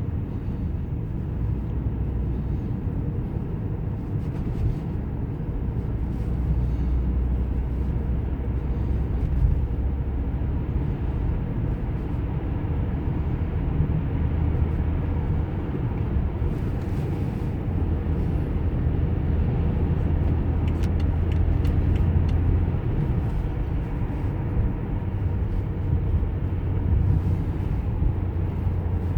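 Cabin noise inside a gasoline BMW 528i driving in city traffic: a quiet, steady low hum of engine and road that shifts slightly in pitch as the speed changes.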